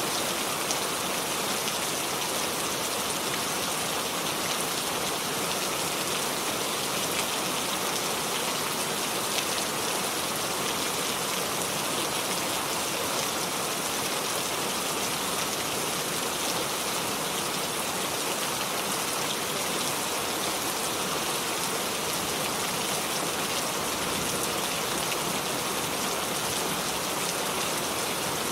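Steady rainfall: an even, unbroken hiss of many raindrops falling.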